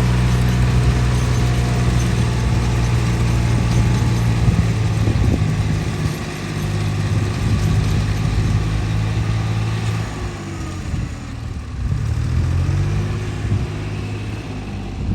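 Small engine of a walk-behind rotary tiller running steadily. Its speed drops and then rises again about two-thirds of the way through.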